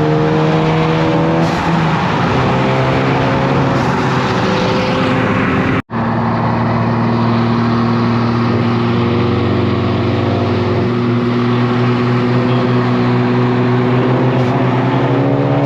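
Car engine running under steady load, its pitch drifting slowly up and down. The sound drops out for an instant about six seconds in, then continues at a steadier, even pitch.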